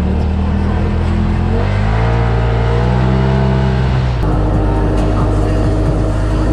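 2016 Polaris RZR XP 4 Turbo side-by-side's turbocharged parallel-twin engine running under way, its pitch rising as it speeds up and then easing off. About four seconds in the sound changes abruptly to a steadier engine note.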